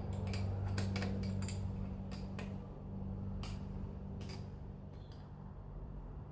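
Irregular metallic clicks and clinks of a hand wrench tightening the cylinder bolts on a KTM 250/300 EXC two-stroke engine, over a steady low hum.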